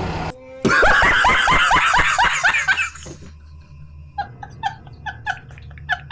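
Laughter: a loud burst of rapid laughing for about two seconds, then quieter chuckling in short separate 'ha' sounds from about four seconds in.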